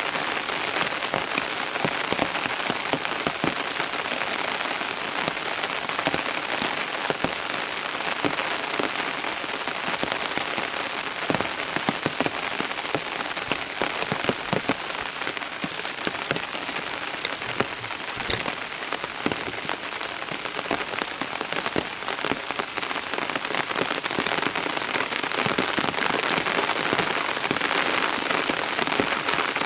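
Steady rain falling, an even hiss with many individual drops striking close by.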